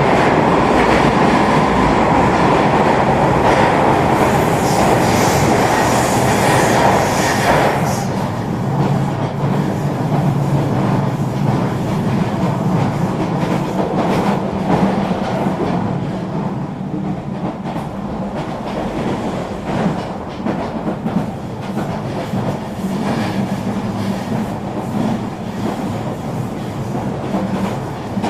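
Eurobahn RE3 regional train running along the track: steady rolling noise with wheel clatter on the rail joints. The high rushing hiss drops away about eight seconds in, leaving a quieter rumble with a low steady hum.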